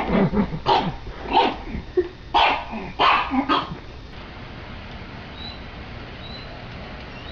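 A dog barking, a quick run of short barks over the first three and a half seconds or so, then stopping, leaving a steady background hiss.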